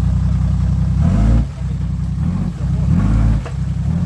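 Off-road 4x4 vehicle's engine running steadily, then revved up twice in quick succession before settling back.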